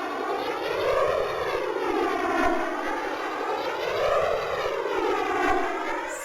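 A buzzy, siren-like wailing tone with many overtones, its pitch slowly rising and falling about every three seconds; it cuts off abruptly near the end.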